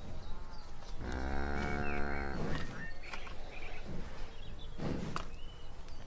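A cow mooing once: one long low moo starting about a second in and lasting about a second and a half, over steady outdoor background noise.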